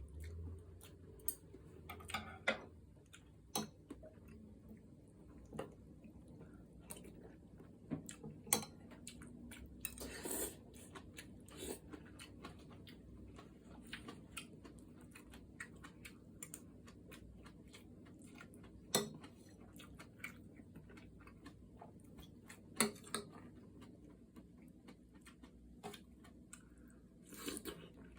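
Close-miked eating: chewing and crunching food, with many short scattered clicks and smacks and a few longer crunchy bursts.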